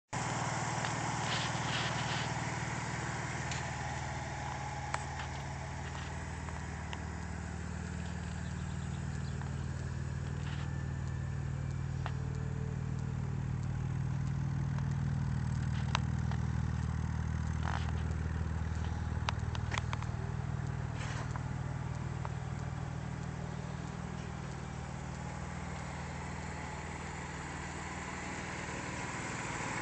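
Audi A6 2.7T's twin-turbo V6 idling steadily, with a few light clicks scattered over the engine sound.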